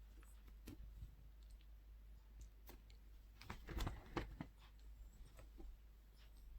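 Faint scattered clicks and light knocks from two small dogs playing over a sock, bunched together about three and a half to four and a half seconds in.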